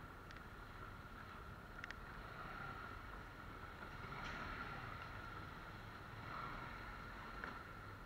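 Steady wind and road noise from a motorcycle on the move, with a constant faint whine and a few light clicks.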